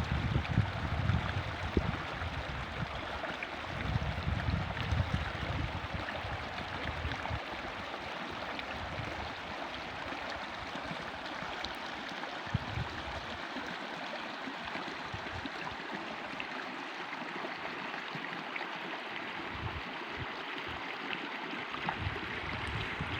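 A stream running steadily, a continuous rush of water, with wind gusting on the microphone in the first few seconds and briefly near the end.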